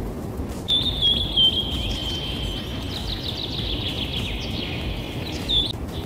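A bird singing: one high whistled note held for about five seconds, sliding slowly lower, with quick chirps over it in the middle, over a steady low background hiss.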